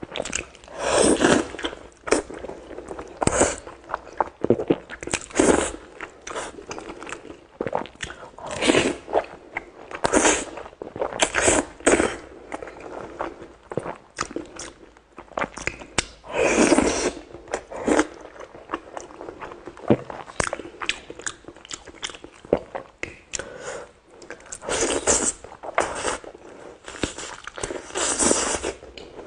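A person eating close to the microphone: loud crunching bites every second or few seconds, with quieter chewing clicks in between.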